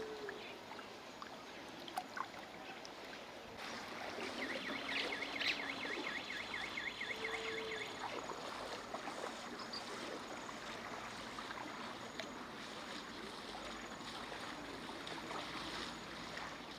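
River Nyando floodwater rushing, a steady noisy wash of flowing water, with a brief high warbling sound about four seconds in.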